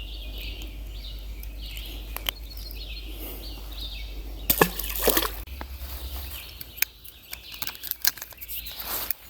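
Water sloshing and splashing in a river, with two louder splashy knocks about halfway through, over a steady outdoor hiss and repeated high chirps.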